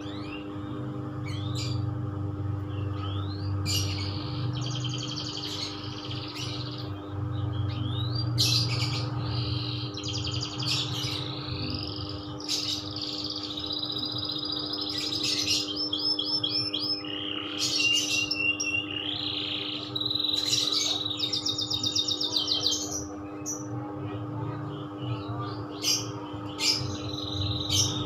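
Domestic canary singing a long unbroken song of warbled phrases and rapid trills, over a steady low hum.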